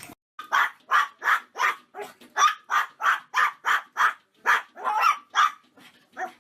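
A dog barking in a steady run of short, loud barks, about three a second.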